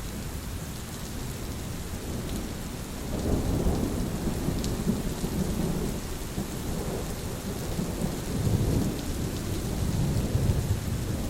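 Steady rain with rolling thunder: a low rumble builds about three seconds in, then keeps swelling and easing, with its strongest rolls near the end.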